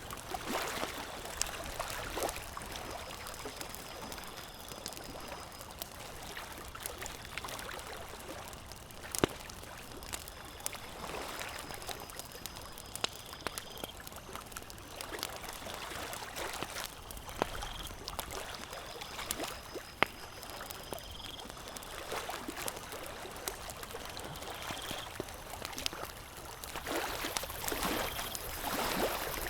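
Campfire crackling, with sharp scattered pops, over lake water lapping in soft swells every few seconds. A faint high chirp repeats every few seconds.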